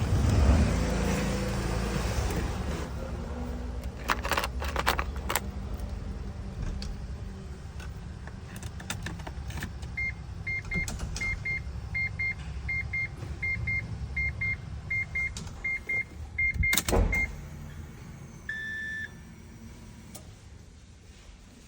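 Naturally aspirated Mazda 20B three-rotor rotary engine in an RX-7, running from a cold start, loudest in the first second or so, then settling to a steady idle. Midway a string of short, evenly spaced beeps sounds about twice a second for several seconds, followed by a brief loud noise.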